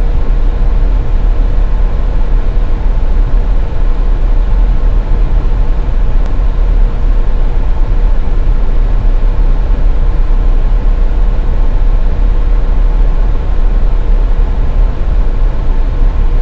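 Steady low rumble of a car driving at highway speed: tyre and road noise with a faint constant hum over it.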